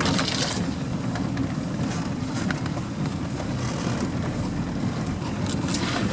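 Off-road vehicle engine running with a steady low rumble, with scattered clicks and rattles over it.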